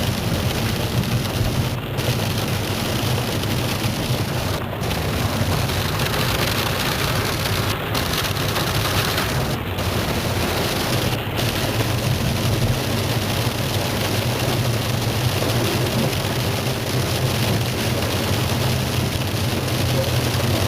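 Heavy hail and rain pelting down in a dense, steady hiss, with a steady low hum underneath.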